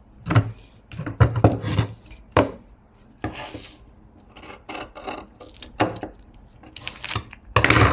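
Scissors snipping masking tape and paper, with paper and tape being handled between the cuts: a series of short sharp crisp sounds, several close together in the first couple of seconds and a loud cluster near the end.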